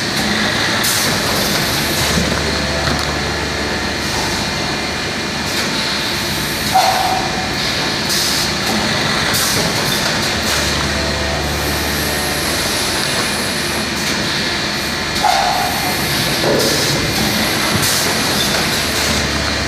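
Vacuum cheese-packaging machine running through its cycles: steady mechanical running noise with a deep hum that comes in for a few seconds at a time and drops out again, and a brief louder sound about every eight to nine seconds.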